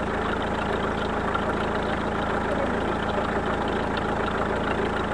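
Warmed-up car engine with 263,000 km on it idling steadily, with a light ticking that the owner puts down to the hydraulic lifters.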